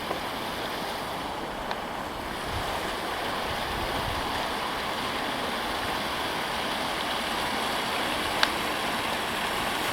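Steady rush of water pouring from an outflow into the river, growing slightly louder partway through, with a couple of faint sharp ticks.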